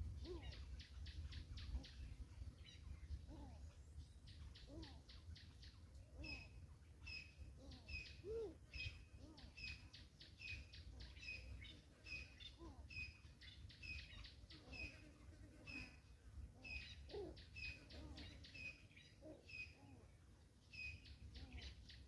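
Faint songbird calls: a short two-note chirp repeated about twice a second, broken by bursts of rapid chattering trills near the start, about four seconds in, about seventeen seconds in and near the end.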